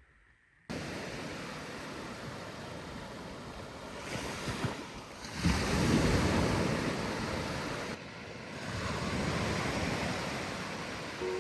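Waves breaking and washing on a shore, a steady rush of surf that swells twice, with some wind. It starts abruptly about a second in.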